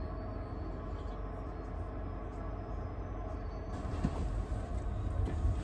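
Steady low rumble and hum inside a train carriage, with a few light knocks; the rumble grows louder about four seconds in.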